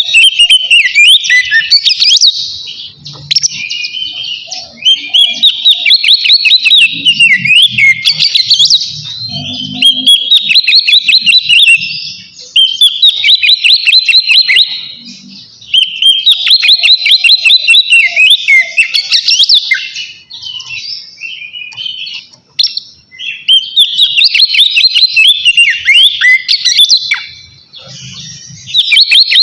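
Oriental magpie-robin (kacer) singing loud, full-throated 'ngeplong' song, a rival-challenging song: long phrases of varied whistles and rapid trills, broken by short pauses.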